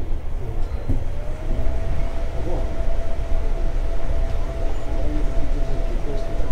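JR 211 series 5000 subseries electric train running, heard from inside the car: a steady low rumble of wheels on rail. About a second and a half in, a steady high tone joins and holds.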